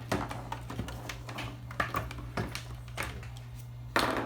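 Scattered clicks and knocks of plugs and cables being pulled out and handled as the amplifier is disconnected, the loudest knock near the end, over a steady low hum.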